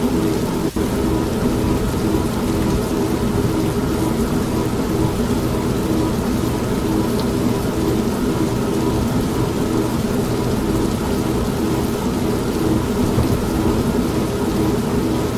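An old manual washing machine running with a steady hum, blended with steady rain and the rumble of thunder.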